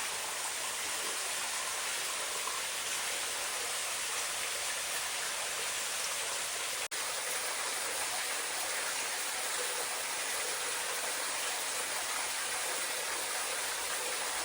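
Small wet-weather waterfall running after heavy rain: a steady rush of falling, splashing water, broken by a brief dropout about halfway through.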